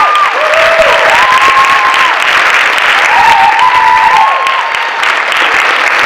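Audience applauding and cheering, with high held whoops over the clapping.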